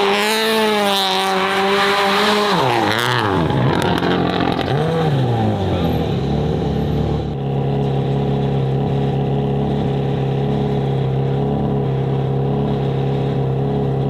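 Performance car engine revving: the pitch falls over the first few seconds, a quick blip of the throttle rises and drops about five seconds in, then the engine holds steady revs.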